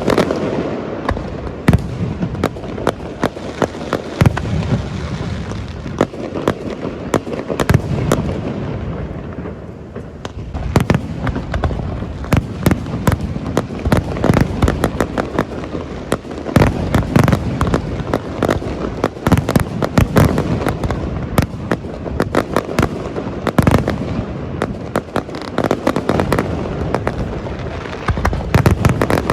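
Aerial fireworks display: a dense run of sharp bangs and crackling shell bursts, one after another, easing off briefly about ten seconds in before picking up again.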